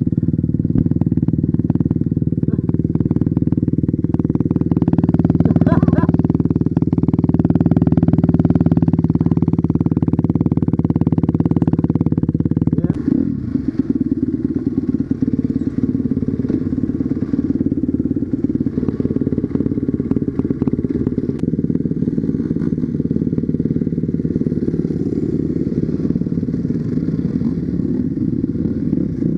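Enduro dirt bike engine running under way with a steady engine note. About halfway through the note drops and the engine runs on more quietly.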